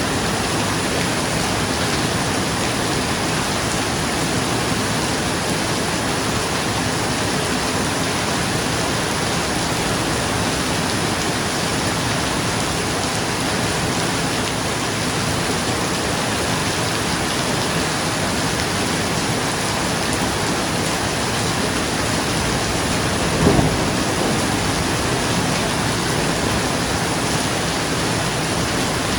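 Steady rain falling on a roof, an even hiss of drops throughout. About three-quarters of the way in there is one brief, louder low thump.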